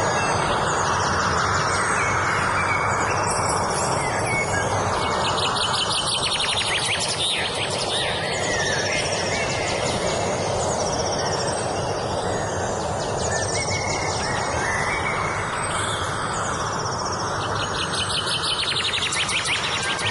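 Several songbirds singing in repeated fast trills and chirps over a steady rushing background noise.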